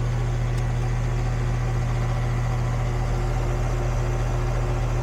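Goodman central air-conditioner condensing unit running: a steady, even hum from the compressor and condenser fan.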